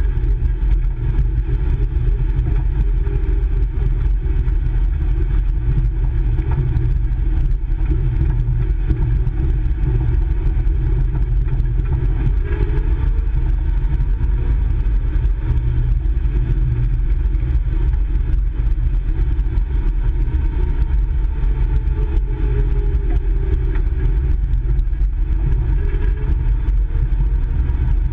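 The Nissan Skyline GT-R KPGC10's 2.0-litre S20 twin-cam straight-six idling steadily, heard from inside the cabin.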